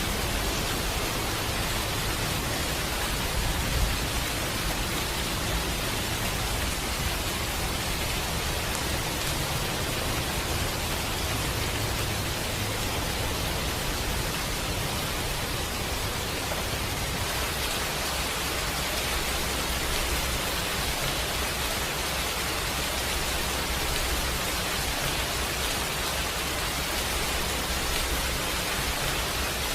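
Steady rain falling, an even unbroken hiss, with a single brief louder pop about four seconds in.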